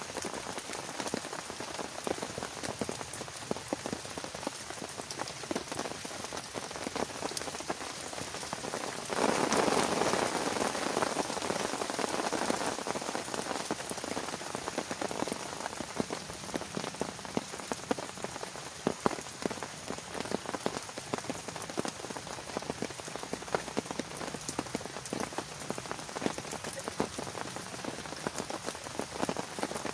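Heavy rain falling steadily on a surface, with many sharp individual drop hits, swelling louder for a few seconds about nine seconds in.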